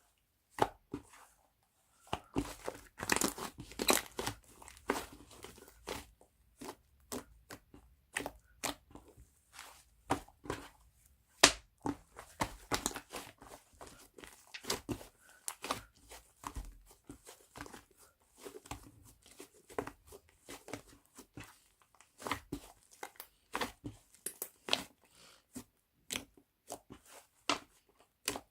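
Hands pressing, poking and stretching white clay slime, giving irregular sharp clicks, crackles and small pops.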